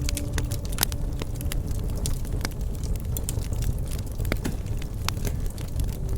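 Wood fire crackling, with frequent irregular sharp pops and snaps over a low steady rumble of the burning.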